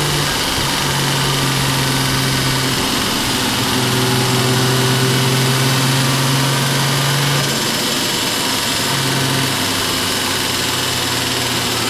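Toyota JZX Tourer's turbocharged straight-six heard from inside the cabin, running at fairly steady revs. The engine note holds level for several seconds at a time and steps slightly a few times as the throttle or gear changes, over a steady hiss of wind and road noise.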